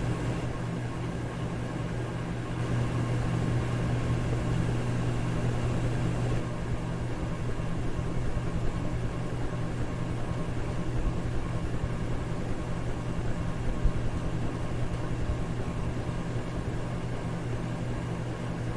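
Electric fan running steadily: a constant low hum under an even whooshing noise.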